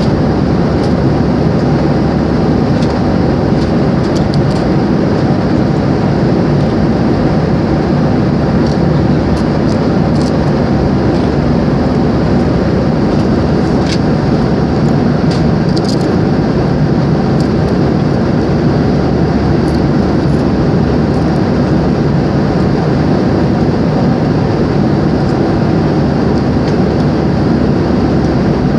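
Steady, loud airplane cabin noise: the low, even drone of engines and rushing air heard from inside the cabin, with a few faint clicks.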